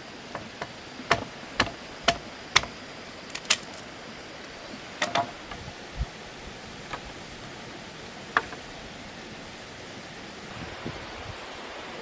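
Sharp chopping blows of a blade cutting the tops off wooden stakes. Four strikes come about half a second apart, followed by scattered single blows, over a steady rushing background noise.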